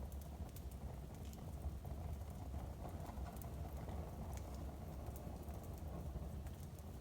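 Wood fire crackling in a fireplace: irregular sharp pops and ticks over a low, steady rumble.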